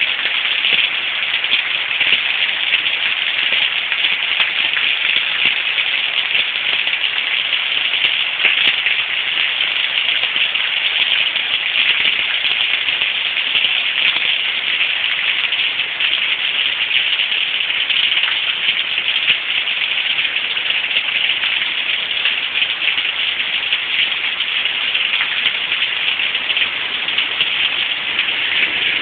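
Heavy rain pouring steadily, a dense, even patter of drops.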